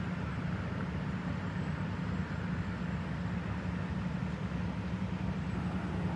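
Steady low hum of an idling vehicle engine, with faint road-scene noise above it.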